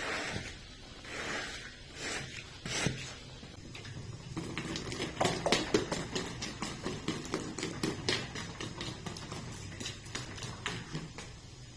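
A carpet being scrubbed by hand: long swishing strokes about every second and a half, then, about four seconds in, a faster run of short scratchy strokes.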